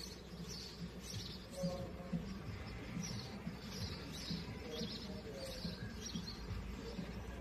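Canaries chirping: short, high chirps repeating about twice a second over a low steady hum.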